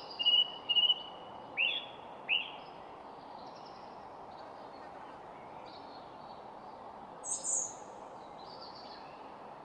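Wild birds calling and chirping over a steady background hiss. A couple of sharp, curving chirps come in the first few seconds, then fainter calls, and a loud high-pitched call about seven seconds in.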